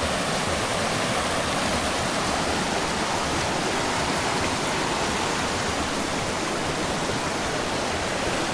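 Rushing creek, its course rerouted by recent flooding, making a steady loud rush of water with no let-up.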